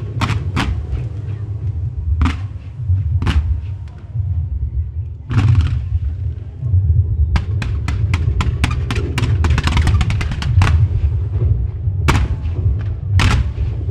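Aerial fireworks going off in quick succession: sharp bangs and booms over a continuous low rumble, with a brief rushing hiss about five seconds in and a dense spell of crackling about nine to ten seconds in.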